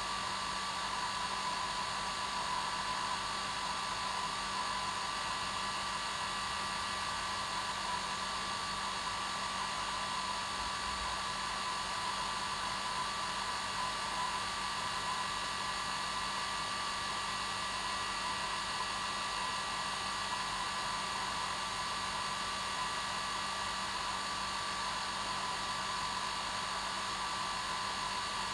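Hair dryer running steadily: a continuous airy rush with a constant motor whine that never changes.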